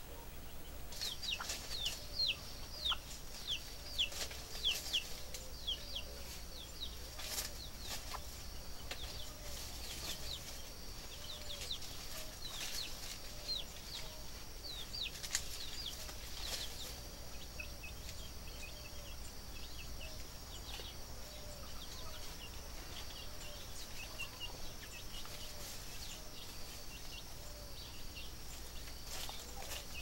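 Birds calling: a quick series of short, high chirps that slide downward, thickest in the first half and thinning later. Under them run a steady high hum, a row of low repeated notes and a few sharp clicks.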